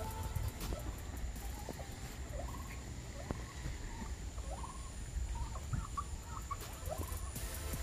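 Birds giving short, scattered calls, many of them brief rising chirps, over a steady low rumble.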